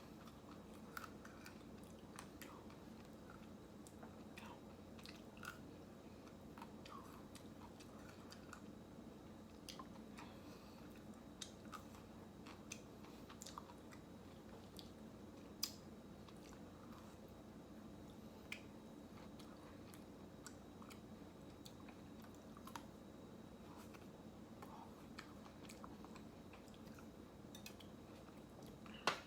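Faint mouth sounds of a person eating ice cream: quiet chewing and bites with scattered small clicks and crackles, over a steady low hum.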